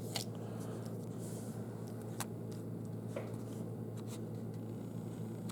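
Small handling noises from a plush toy and its paper tag being turned over by hand: a few light clicks and rustles over a steady low hum.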